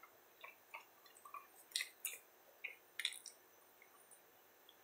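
A person chewing a mouthful of pizza sub close to the microphone: faint, irregular mouth clicks and smacks, loudest about two and three seconds in.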